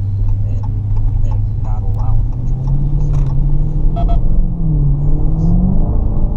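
Dodge Challenger Scat Pack's 6.4-litre HEMI V8 pulling under throttle on a wet road. The engine note climbs slowly, dips briefly about five seconds in, then rises again as traction control steps in to catch wheelspin.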